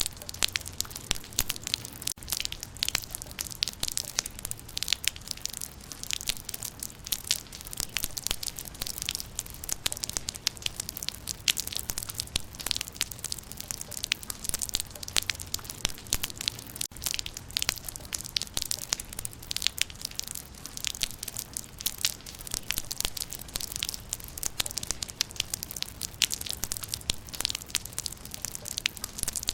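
Steady rain falling on leaves: a dense, irregular patter of raindrops ticking and crackling on foliage, with a faint low rumble underneath.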